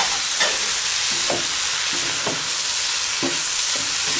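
Diced vegetables and minced chicken sizzling in a hot nonstick wok over high heat. A wooden spatula scrapes and knocks against the pan about once a second as the food is stirred.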